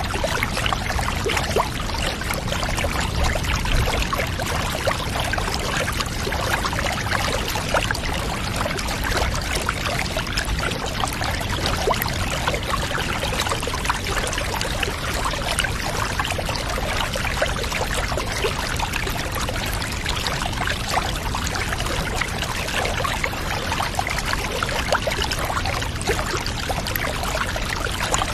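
Water pouring steadily into a bath, a continuous running and trickling with fine splashes.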